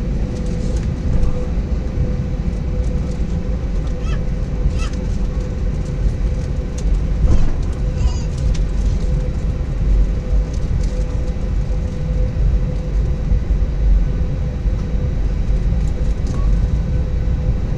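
Cabin noise of an Airbus A320-232 on its takeoff run: a steady low rumble from its IAE V2500 engines at takeoff power and from the wheels on the runway, with a steady hum running through it.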